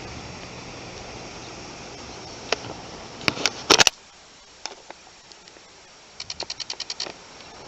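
Wind noise rushing on the microphone, broken by a few sharp clicks about two and a half to four seconds in, the loudest near four seconds, after which the rush drops away suddenly; near the end comes a quick run of about ten small clicks in under a second.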